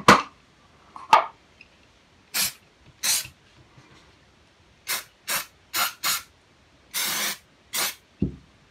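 Gun-cleaning solvent sprayed onto the derringer in about eight short hissing squirts, one near the end held longer than the rest, to loosen firing residue. Two sharp handling knocks come at the start and about a second in.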